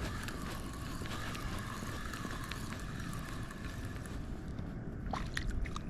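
Wind blowing across the microphone, a steady rough rumble, with a few sharp clicks near the end.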